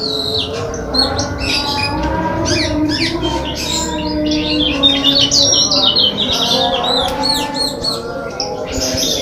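Small caged songbirds, a cemperling and a Lombok white-eye (kecial/pleci), chirping and twittering in quick, overlapping phrases, with a dense run of rapid notes about four to five seconds in.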